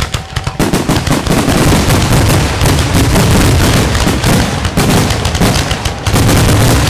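Aerial fireworks shells bursting in a rapid, overlapping barrage of booms and crackle, dense and continuous from about half a second in. This is typical of a display's finale.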